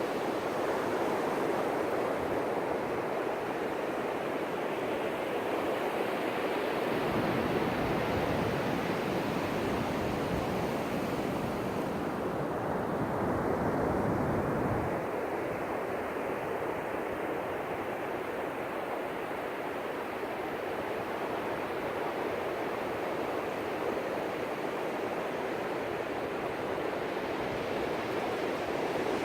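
Ocean surf washing continuously onto the beach, swelling to a fuller, deeper rush for several seconds in the middle before easing back.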